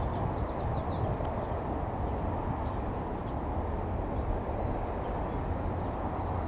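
Tits calling in short, high chirps: a quick run of about six falling notes at the start, a single falling note a couple of seconds later, and scattered notes near the end. Beneath them is a steady low rumble of noise.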